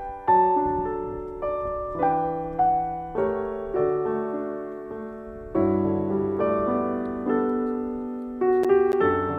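Background piano music: slow notes and chords, each struck and fading, a new one about every half second to second.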